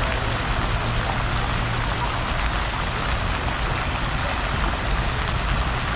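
Steady rushing and splashing of flowing water from the plaza's fountains and water channels, with a constant low rumble underneath.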